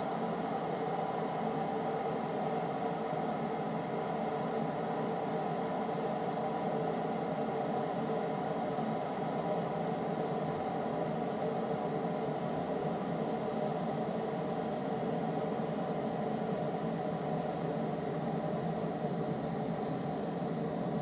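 A steady mechanical hum or whir that holds at one level throughout, with no bird calls.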